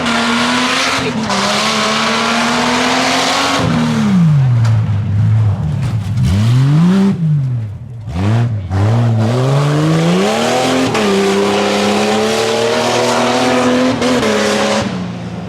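Tuff truck engine racing over a dirt obstacle course, held at high revs, with the revs dropping and climbing again several times around the middle, then held high before falling off near the end.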